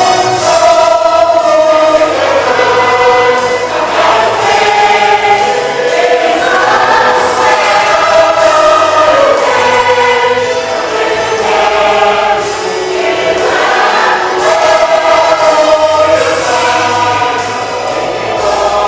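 Church choir singing a Christmas song with accompaniment.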